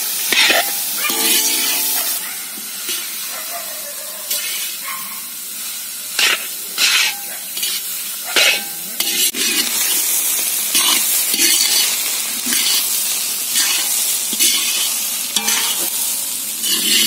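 Grated carrot and onion frying in oil in a large kadai with no water added, sizzling steadily while a metal ladle stirs and scrapes against the pan, with repeated sharp scrapes and clinks throughout.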